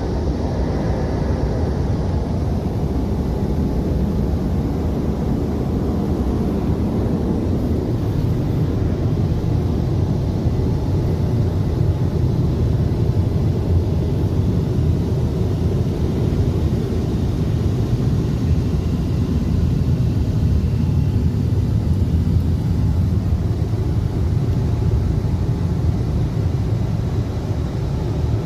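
Automatic car wash machinery running, heard from inside the car's cabin: a steady, muffled roar.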